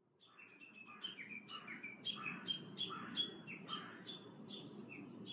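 Birds chirping in a run of short, falling notes, about three a second, fading in over the first second above a low background rumble.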